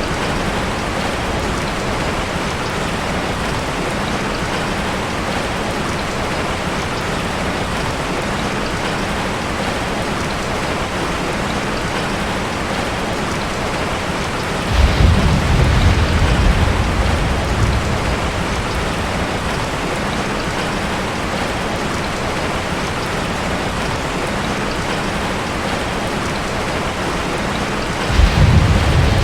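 Heavy rain falling steadily on a tin roof, with a low thunder rumble about halfway through that lasts a few seconds, and another starting near the end.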